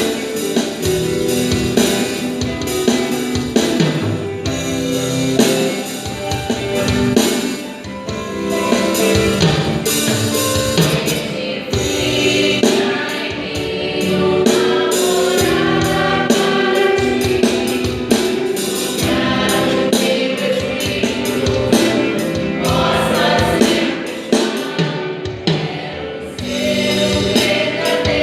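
Gospel vocal group singing a song in choir-like harmony over a full band with a steady drum beat.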